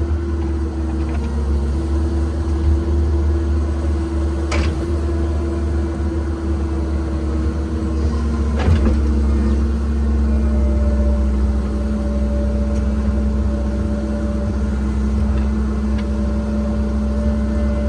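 Cat 306 mini excavator's diesel engine running steadily with a hydraulic whine, which changes pitch about eight to ten seconds in as the machine works. There are two sharp clanks, one about four and a half seconds in and a louder one near nine seconds.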